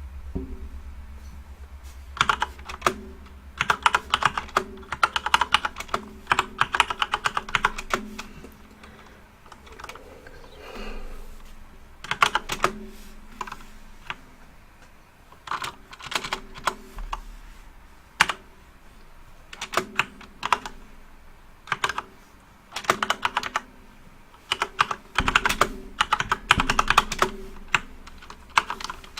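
Typing on a backlit computer keyboard: quick runs of key clicks lasting a second or two, broken by short pauses.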